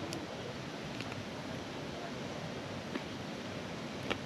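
Steady outdoor background noise, an even hiss, with a few faint clicks about one and three seconds in and a sharper one near the end.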